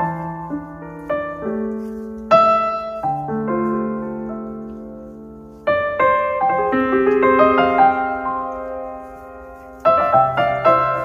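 Soft solo piano background music: gentle phrases of struck notes left to ring and fade, with new phrases starting about two, six and ten seconds in.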